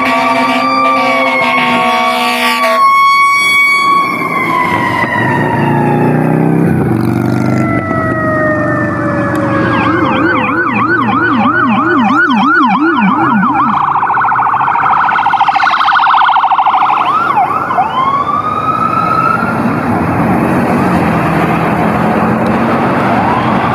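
Fire apparatus air horns blowing steadily and cutting off, then a mechanical Q siren winding down in one long falling tone. Electronic sirens follow, warbling fast at about three cycles a second, then wailing with a rising sweep.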